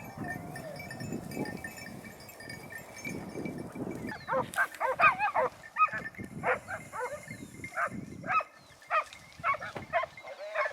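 A low rustling noise, then from about four seconds in a pack of hunting dogs baying in short, repeated yelps.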